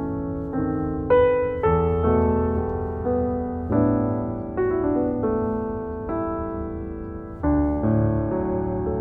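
Background music: a slow piano (or electric piano) playing sustained chords and notes, a new one struck about every half second to a second.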